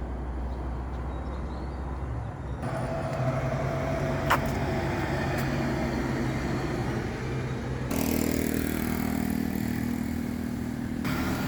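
A car running along the road: a steady engine hum with road noise, and one sharp click about 4 seconds in.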